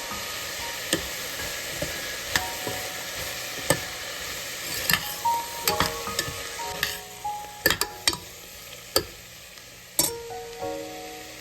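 Food sizzling in a pan, with a utensil knocking and clicking against it as it is stirred, over gentle background music.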